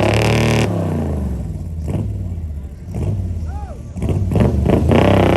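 Chevrolet Camaro engine revving hard, falling off after about a second, running lower for a couple of seconds, then revving up again about four seconds in.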